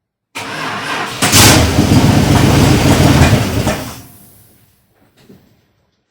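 1978 Dodge Power Wagon's engine cranking for about a second, then catching and running loudly on fresh oil. The sound then fades away, followed by a couple of faint knocks near the end.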